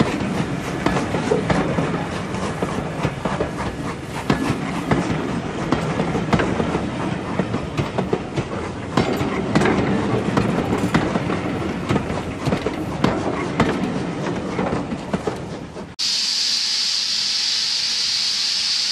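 Railway passenger coaches rolling slowly past close by, their wheels rumbling and clicking over the rail joints. About sixteen seconds in it cuts abruptly to a steady loud hiss of steam from a BR Standard Class 2MT steam locomotive.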